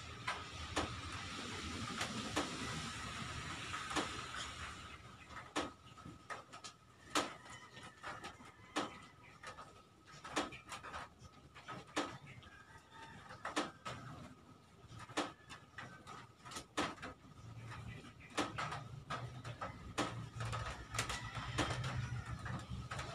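People eating with their hands: irregular wet chewing and lip-smacking clicks, with a faint steady high tone underneath.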